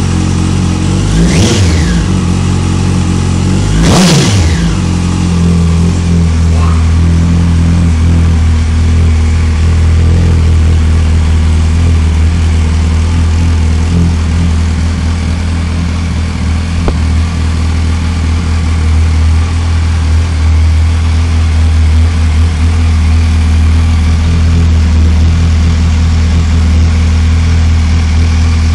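Yamaha YZF-R1 motorcycle's inline-four engine blipped twice near the start, each rev climbing sharply and dropping straight back, then idling steadily.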